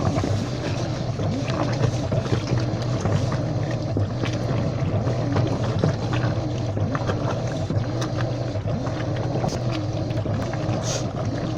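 Washing machine running: a steady low motor hum with a constant wash of noise and scattered small clicks and rattles.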